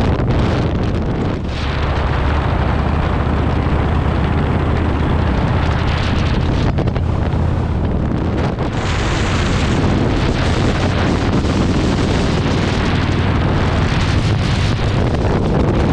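Heavy wind rushing over the microphone of a moving motorcycle, with the engine's low, steady drone underneath.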